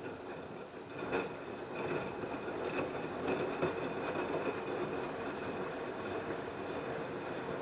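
LG F10B8QD1 direct-drive washing machine turning its drum through a wash. There is a knock about a second in, then a steady churning with a faint high whine.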